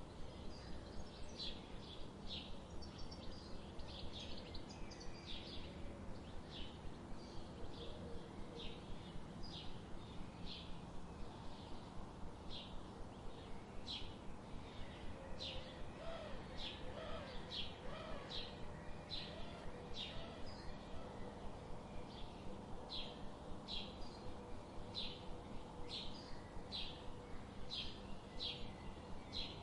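Small birds chirping: a long, even run of short, high chirps, about two a second, with a few faint lower wavering calls underneath.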